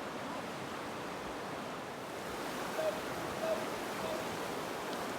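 River water rushing over rocks, a steady hiss, with three short notes in the middle.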